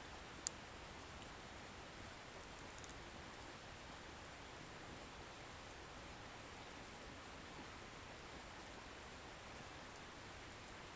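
Wood bonfire burning with a faint, steady hiss. A single sharp crackle sounds about half a second in, with a few faint ticks later.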